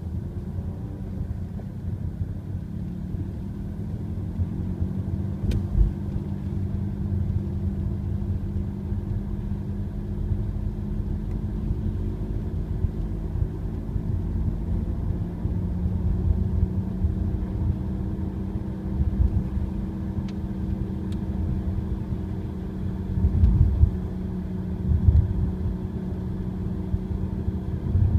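2008 Audi A4 1.8 TFSI on the move: a steady low rumble with a droning hum that rises a little in pitch over the first few seconds, then holds level, with a few brief thumps. The drone is speed-related, coming from the front passenger side, and the owner suspects a worn front wheel bearing.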